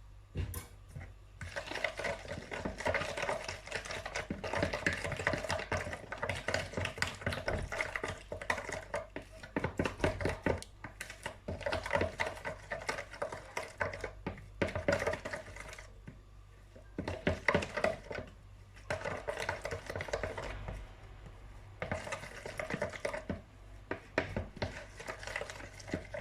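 Cake batter being stirred by hand in a bowl: a rapid run of scraping clicks of the utensil against the bowl, in bouts of a few seconds broken by short pauses.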